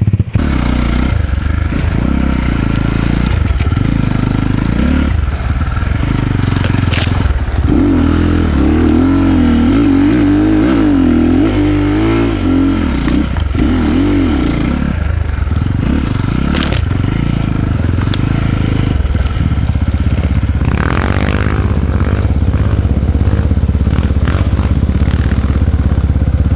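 Enduro dirt bike's single-cylinder engine running under load on a trail, its pitch rising and falling as the throttle is worked, with revving surges. Occasional knocks and clatter from the bike over rough ground.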